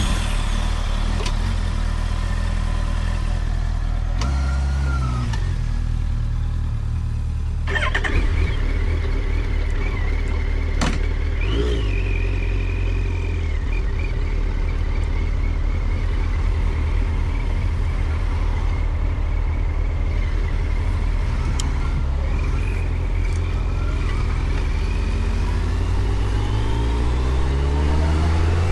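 Car engine and road noise while driving, a steady low hum with a few short clicks. Near the end the engine note starts to rise as the car accelerates.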